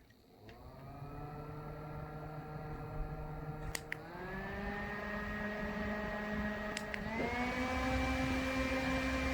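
Small car circulator fan's motor spinning up with a steady whine, then clicked up to a higher speed twice, about four and seven seconds in, its pitch stepping up each time.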